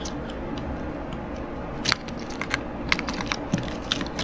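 Small parts of an MN82 RC gearbox being handled, giving irregular light clicks and taps over a steady background hiss, more of them in the second half.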